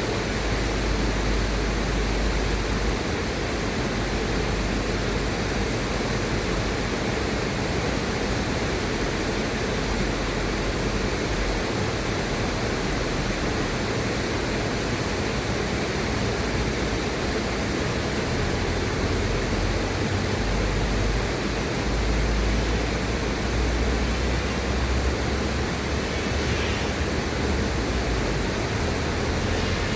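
River water rushing steadily, an even hiss with a low rumble that swells and eases.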